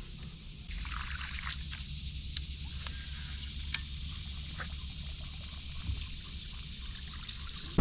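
Water trickling and dripping, with scattered small splashes and ticks over a steady high hiss.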